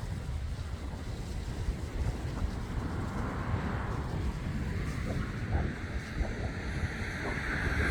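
Wind buffeting the microphone, a gusty low rumble over a steady rushing noise.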